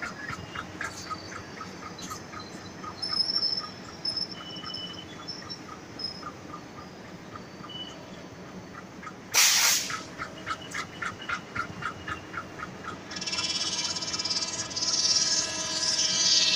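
Passenger train coaches rolling past, the wheels clicking evenly at about three a second. A short sharp hiss comes about nine seconds in, and a loud high-pitched squeal with several tones runs near the end.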